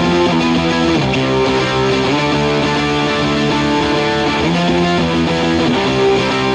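Electric guitar playing long held rock chords, changing about every second or so, as the intro of an oi/skinhead rock song.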